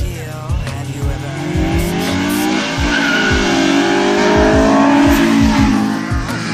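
A street-racing car's engine revving hard as it closes in, its note climbing and growing louder to a peak about four to five seconds in, then dropping in pitch as it passes. A hip hop song's bass beat thumps steadily underneath.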